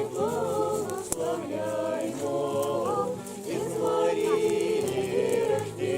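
A group of voices singing a cappella, with long held notes and no instruments; a single sharp click about a second in.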